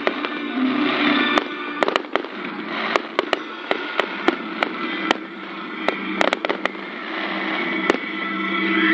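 Fireworks display: a string of sharp bangs from bursting shells, about two a second at irregular intervals, over a continuous crackling hiss with some whistling tones, growing louder near the end.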